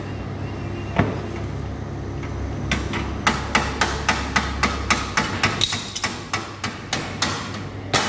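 Hammer striking the metal of a tractor seat under repair: a single blow about a second in, then a fast, even run of about four blows a second.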